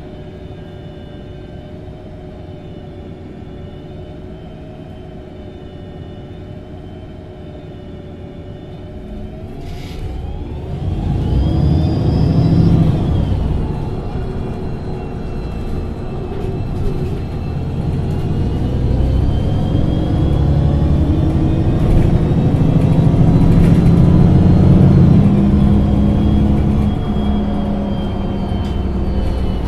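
A MAN NG273 LPG-powered articulated bus stands with its engine idling and a steady whine. About ten seconds in it pulls away, the engine rising in pitch and getting much louder under load, then holding there with a slight easing near the end.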